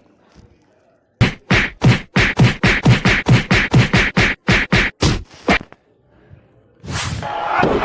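A rapid flurry of about twenty punch sound effects, roughly five hits a second for about four seconds, followed by a crowd starting to cheer near the end.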